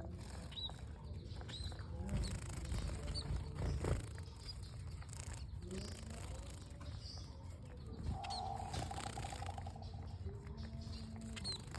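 Small birds giving short, high chirps every second or so, with a buzzy rattling call about eight seconds in, over a steady low noise.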